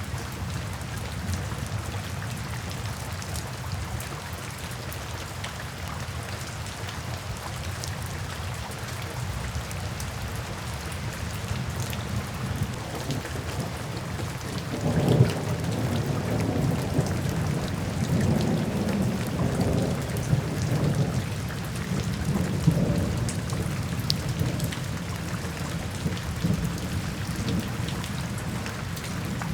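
Steady rain falling, with a clap of thunder about halfway through that rumbles on for several seconds and then fades.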